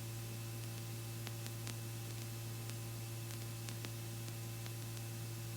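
Steady low hum and hiss of a Robinson R44 helicopter's intercom audio in flight, with a few faint scattered clicks.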